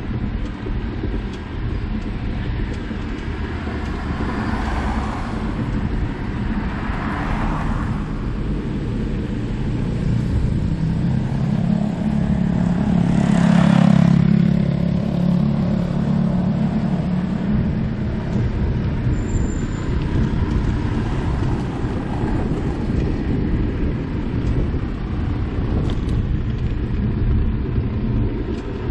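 Steady low rumble of wind and road noise while riding a bicycle along a road, with a motor vehicle passing close by about halfway through, its engine and tyre noise rising to a peak and then fading.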